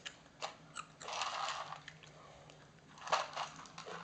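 Someone chewing crunchy dry cereal snacks: a few sharp crunches, then longer spells of crunching about a second in and again near the end.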